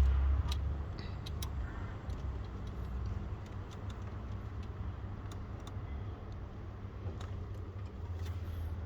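Scattered light metallic clicks and clinks of hand tools at work, over a steady low rumble of a running vehicle engine.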